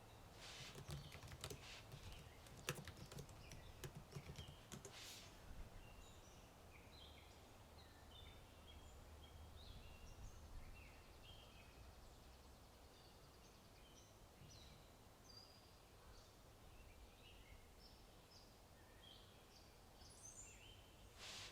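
Faint computer-keyboard typing, a quick run of key clicks in the first few seconds. Songbirds chirp throughout, over a soft low ambient rumble.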